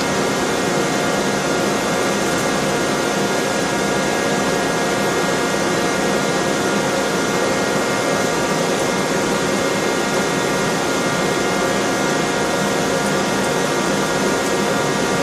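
Takisawa TT-200 CNC turning center running under power: a steady machine hum and hiss with several constant tones, unchanging throughout.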